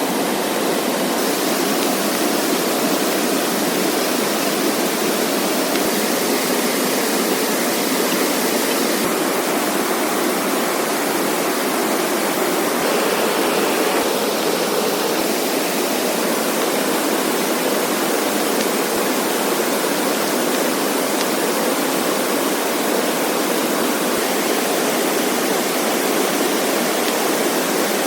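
Heavy rain falling steadily, an even, unbroken rush of water with no distinct drops or knocks standing out.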